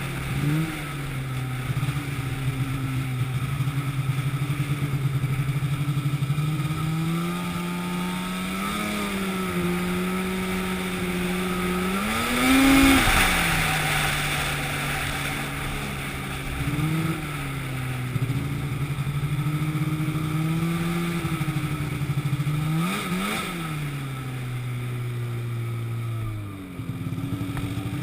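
An engine running steadily, its pitch rising and falling several times as the throttle or load changes, with the highest rise about halfway through.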